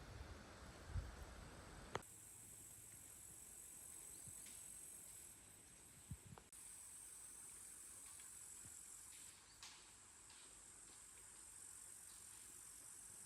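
Faint, steady high-pitched chirring of crickets, with a few soft clicks and rustles nearby.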